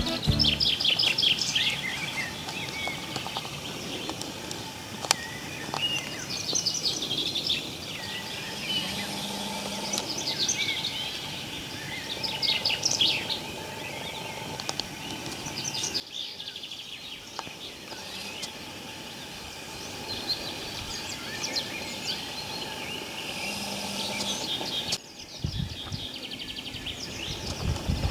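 Several small songbirds singing and chirping in a spring woodland, with short trills over a faint steady hiss. The sound changes abruptly twice, about halfway through and again near the end, as between separate recordings.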